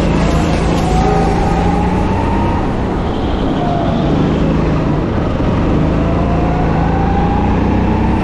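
Go-kart engine at race speed, its pitch climbing twice as it accelerates and dropping back in between.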